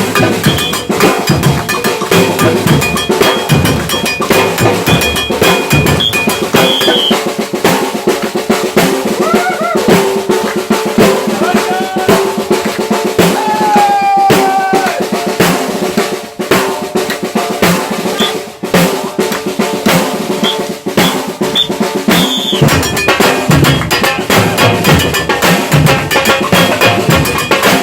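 Samba percussion band playing a fast, driving rhythm on drums, snares and bass drums, with a few short high tones above it.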